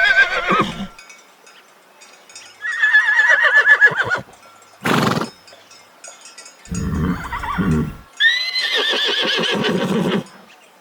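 Horses whinnying: two long neighs with a quavering, falling pitch, one about three seconds in and one about eight seconds in, plus the end of another at the very start. Between them come a short snort around five seconds and a low, pulsing nicker around seven seconds.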